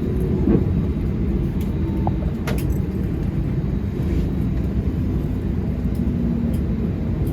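Steady low rumble in the cabin of an Airbus A320neo on the ground after landing, from its engines at low power as it taxis, with a few faint clicks.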